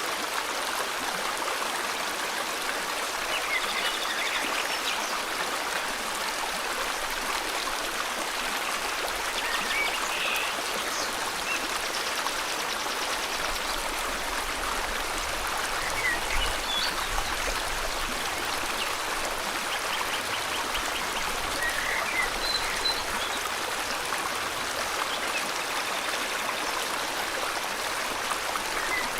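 River water flowing steadily in an even rushing wash, with small birds chirping faintly now and then.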